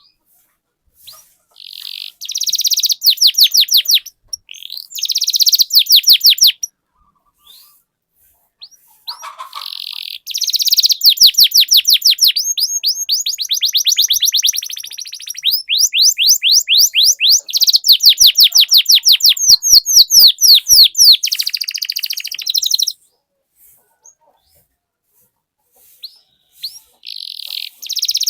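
Domestic canary singing in high, fast trills of rapidly repeated notes, the long rolling phrases that canary keepers call 'ngeroll'. There are short phrases about two and five seconds in, a long unbroken run of song from about ten to twenty-three seconds in, and another phrase near the end.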